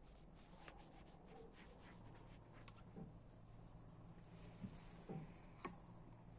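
Faint handling noises of small engine parts on a workbench: light scratching and small clicks, with a few soft knocks and one sharper click near the end.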